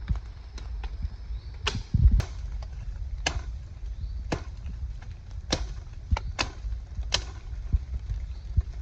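Wood being chopped: sharp knocks of a blade striking wood, about a dozen at an uneven pace, over a low rumble.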